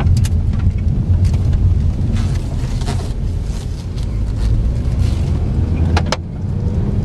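2014 Ford Focus SE being driven, heard from inside the cabin: a steady low rumble of engine and road noise, with light clicks and one sharp click about six seconds in.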